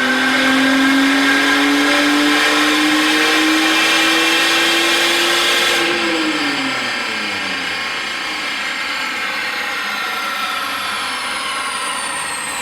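Supercharged car engine accelerating, its note climbing steadily for about six seconds, then easing off with the pitch falling away. A thin high whine rides over the engine and drops slowly in pitch as it winds down.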